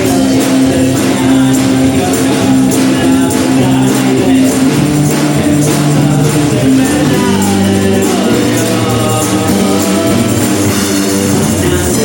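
Live band music: regular percussion hits over held bass and melody notes, with a gliding sung or played line in the middle.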